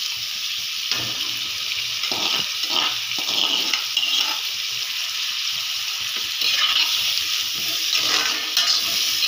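Prawns and masala paste sizzling in hot oil in a kadai. A metal spatula scrapes the paste in from a clay bowl, then stirs and scrapes against the pan. The sizzling grows louder about six and a half seconds in.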